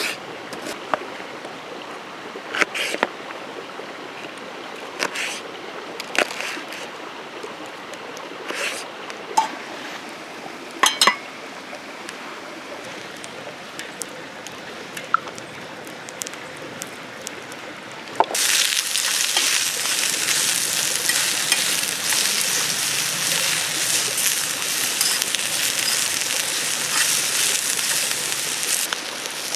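Rain falling, with scattered light clinks of camp cookware against it. About 18 seconds in, a louder steady hiss of heavy rain starts suddenly and keeps on.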